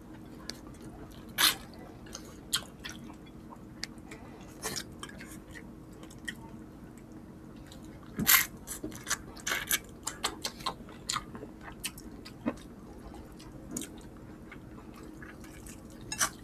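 Close-up eating sounds of creamy chicken pastel and rice eaten by hand: wet chewing and lip smacks, with a louder smack about a second and a half in and a quick run of them about halfway through.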